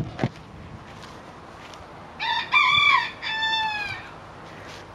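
A rooster crows once, about two seconds in: a few short notes and then a longer note that falls away. At the very start there are a couple of sharp knocks as the lid goes onto the hive box.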